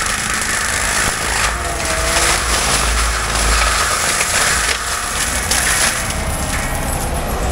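Cat 299D3 compact track loader's diesel engine running under load while its forestry mulcher head grinds through brush and wood, a steady rumble with repeated surges of chipping noise.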